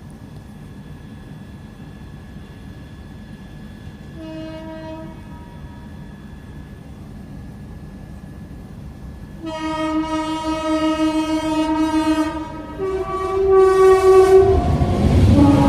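Locomotive horn of an approaching Indian passenger train: a short blast about four seconds in, then a long blast from about halfway that shifts between two pitches near the end. Under it the low rumble of the train grows loud as it draws near.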